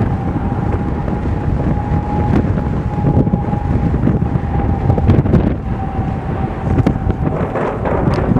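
Strong wind buffeting the microphone in heavy low gusts, with a steady high-pitched hum running through it and a few faint clicks.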